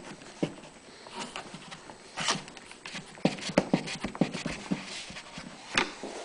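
Irregular light clicks and taps of hand tools and fasteners on a portable generator's casing during reassembly, with two brief scraping rustles about two seconds in and near the end.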